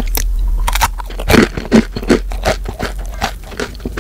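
Close-up crunching and chewing of a crisp puffed-grain oranda snack coated in pistachio ganache: an irregular run of sharp, crisp crunches, loudest in the middle.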